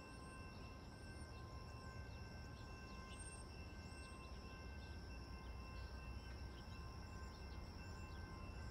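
Faint railside ambience: a low rumble from an approaching train slowly builds, with short high bird chirps and a steady high-pitched hum over it.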